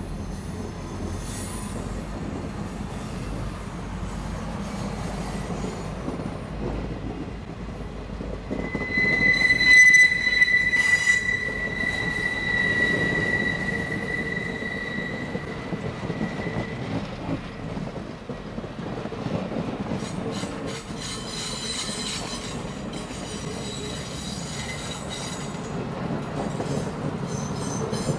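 A train rolling by on steel rails with a steady rumble. From about eight seconds in, a high, steady wheel squeal starts; it is loudest around ten seconds and fades out past the middle.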